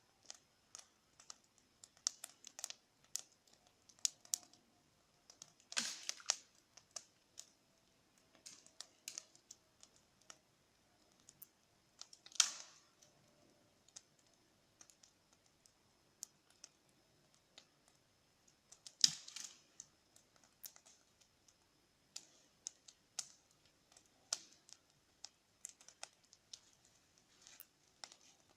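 Wood bonfire crackling: scattered small pops and snaps at an uneven pace, with three louder cracks spaced several seconds apart.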